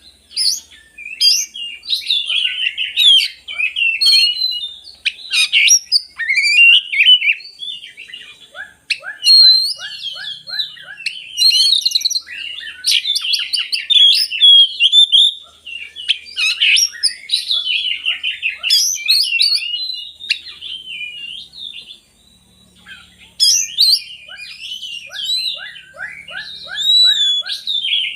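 Oriental magpie-robin (kacer) singing loudly and almost without a break: a varied stream of whistles, trills and quick chattering phrases. Here and there come short runs of rapid repeated notes, about five a second.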